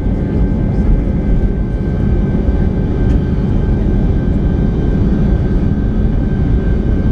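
Airbus A319 cabin noise: the steady drone of its IAE V2500 jet engines and the rush of air, with a faint steady high whine over it.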